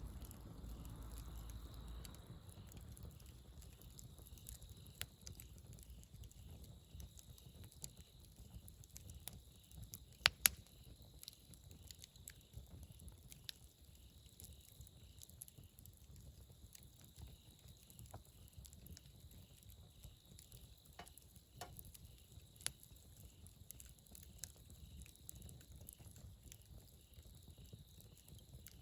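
Wood campfire burning, with faint crackling and scattered pops over a low, steady rumble of the flames; two sharp pops close together about ten seconds in are the loudest.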